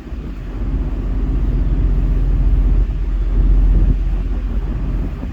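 Commuter ferry under way: a steady low rumble from its engines, with noise that rises and falls in loudness.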